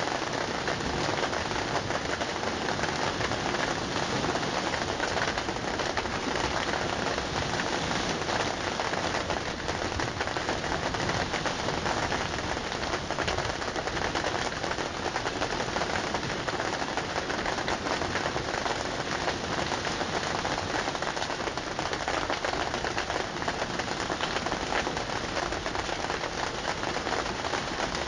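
Steady heavy rain falling, a dense, even patter of drops that never lets up.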